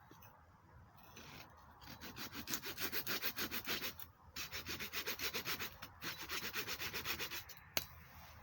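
Fast, even rubbing or scraping strokes, about five or six a second, in two runs of a few seconds with a short break between them, then a single sharp click near the end.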